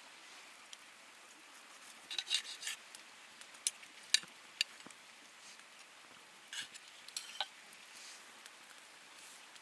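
Camp utensils and cookware being handled: a cluster of short scrapes a couple of seconds in, a few sharp clicks, then more scrapes and clicks a little later.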